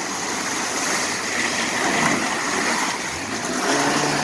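Rushing river water: a steady wash of noise that swells a little about halfway through.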